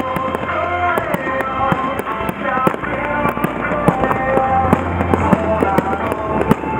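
Fireworks going off in many sharp pops and cracks over loud music with a melody and a heavy bass.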